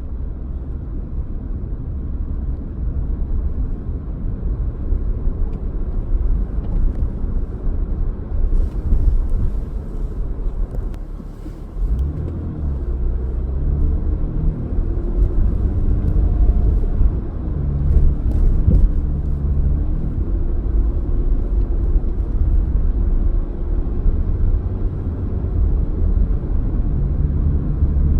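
Car driving, with a steady low road and engine rumble. About twelve seconds in, an engine note with a clear pitch comes in and carries on over the rumble.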